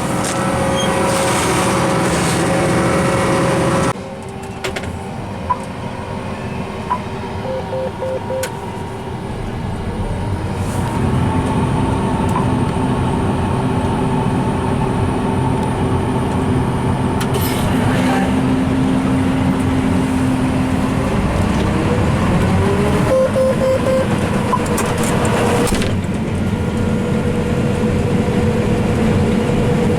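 Combine harvester running steadily while harvesting soybeans, with a constant engine and machinery drone. Short beeping tones sound twice.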